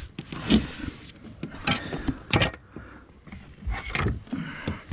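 Irregular knocks and clicks, spaced about half a second to a second apart, from hand work fitting fibre-cement slates.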